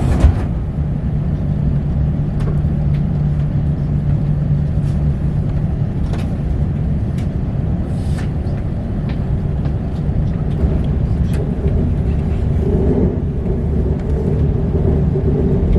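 KTX high-speed train running: a steady low rumble, with a low hum through the first few seconds, a higher hum near the end, and scattered light clicks.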